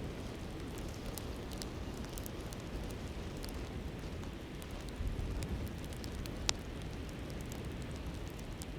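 Campfire crackling with scattered small pops and one sharper pop about two-thirds of the way through, over the steady low rush of a flowing river.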